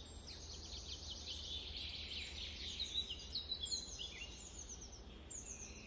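Small birds chirping and twittering in many quick, high notes over a faint steady background hum: outdoor nature ambience.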